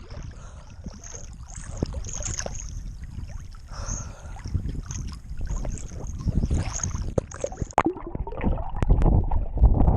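Water rushing and splashing along a moving boat's hull, with wind buffeting the microphone. The wind rumble grows heavier near the end.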